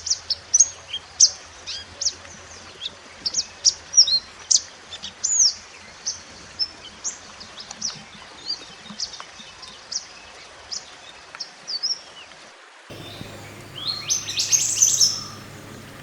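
Wild 'mantenan gunung' songbird singing a rapid string of short, high chirps and whistled slurs, the kind of recording used as a song tutor for caged birds. About thirteen seconds in, the recording cuts to another take with a denser, louder burst of chirps over a low hum.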